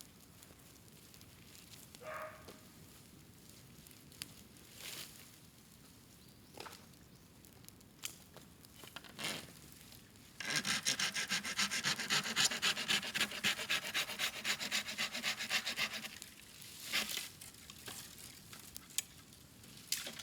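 Bamboo bonfire giving scattered sharp pops. About ten seconds in, a loud, fast, rasping rub starts and lasts about five seconds, then stops.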